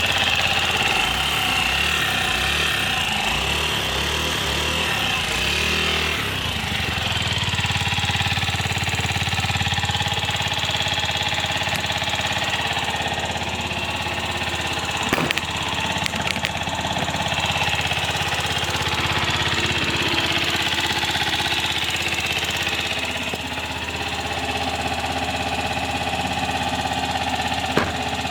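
Honda Gyro Canopy's four-stroke single-cylinder scooter engine running steadily. About six seconds in, a slow uneven pulsing smooths into a steadier, faster note. A few sharp clicks come in the middle.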